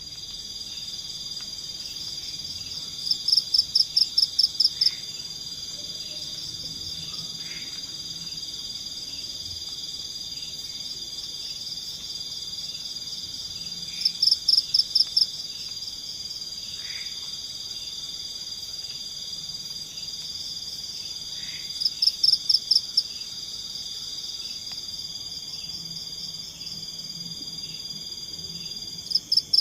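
Night forest chorus of insects and frogs: a steady high-pitched insect drone, and over it a louder call of about ten quick chirps in a row that comes four times, the last near the end.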